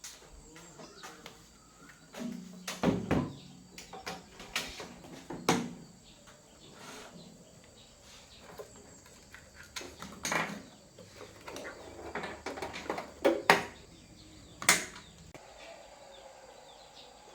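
Irregular clicks, knocks and clunks of hard objects being handled and set down during appliance repair work, with a few louder knocks scattered through.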